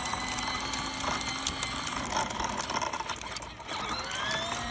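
A toddler's small dirt bike motor whirring with a gear-like clatter, its whine rising in pitch near the end as the bike speeds up.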